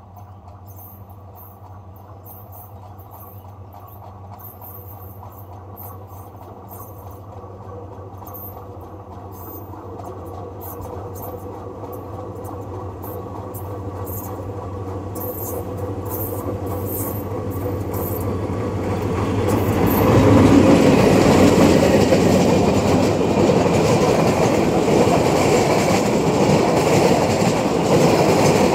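Diesel-electric freight locomotive approaches, its engine growing steadily louder for about twenty seconds, then passes close by. A long train of empty container flat wagons follows, rolling past loudly on the rails.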